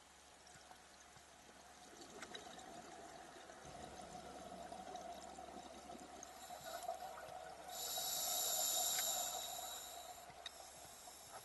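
A diver breathing through a scuba regulator, heard underwater: a bubbling, gurgling exhalation, then a loud hissing inhalation about eight seconds in that lasts a couple of seconds.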